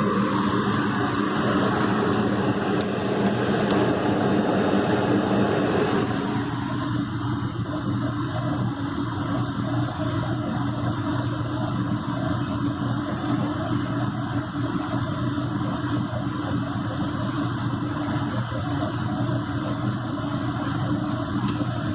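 Gas furnace running with its burners lit, its motors giving a steady hum. A rushing hiss on top of the hum drops away about six and a half seconds in.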